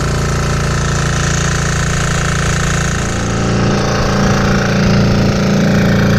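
Single-cylinder 196cc 168F diesel engine running steadily on #2 diesel, driving a generator under a space-heater load. It grows a little louder with a stronger low note about halfway through.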